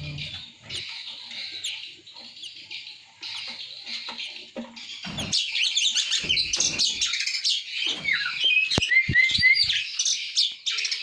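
Oriental magpie-robins chirping: scattered calls at first, then a dense run of rapid high chirps from about five seconds in. A few sharp knocks sound near the nine-second mark.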